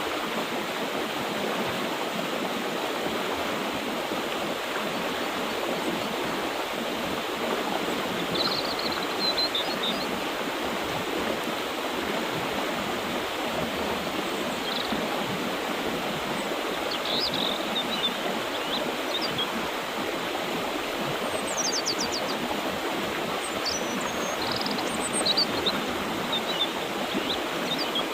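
Mountain river water flowing steadily, with birds chirping in short, high calls now and then above it, more often in the second half.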